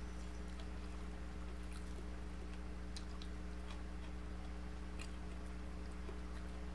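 A person chewing and picking apart crispy deep-fried tilapia with the fingers, with scattered faint crisp clicks, over a steady low electrical hum.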